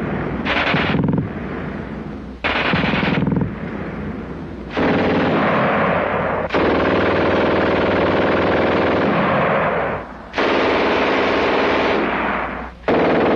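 German MG42 belt-fed machine gun firing 7.92 mm rounds in bursts at a very high rate, a continuous ripping buzz rather than separate shots. Two short bursts of about a second open, followed by longer bursts lasting several seconds each with brief pauses between them.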